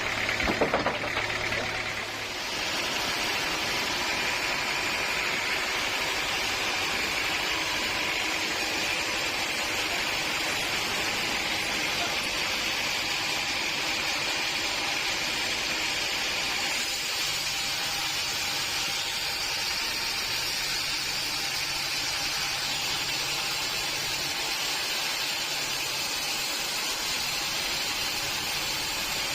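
Sawmill machinery running steadily with a continuous hiss. There is a short clatter of knocks about a second in.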